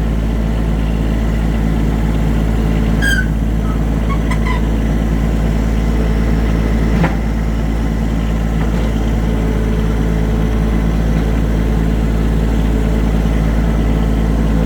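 Small tractor's engine running steadily at low speed while it pushes a trailer with a chain, with one sharp clank about seven seconds in.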